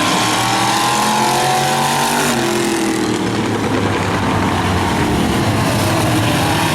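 Several demo-class race cars' engines running at race speed, their overlapping pitches rising and falling as they throttle through the turns and straights, with one dropping in pitch a little over two seconds in.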